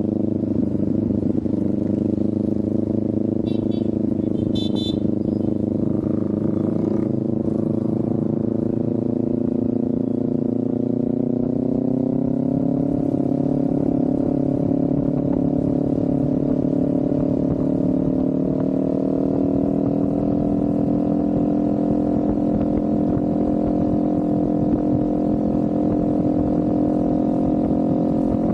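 Kawasaki Ninja 400's parallel-twin engine running steadily under way. Its pitch rises twice, about halfway through and again about two-thirds in. A brief high-pitched chirp comes about four seconds in.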